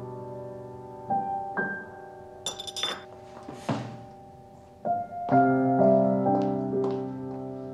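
Slow, soft piano music with held notes, swelling again a little past the midpoint. About two and a half seconds in there is a brief high clink, and a soft thud follows about a second later.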